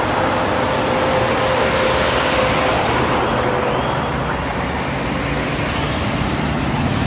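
Street traffic: cars driving past, with steady engine and tyre noise.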